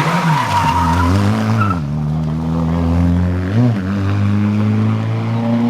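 Historic rally car engine working through a stage: the revs drop about two seconds in, there is one quick blip near the middle, then the engine pulls hard with its pitch climbing steadily toward the end.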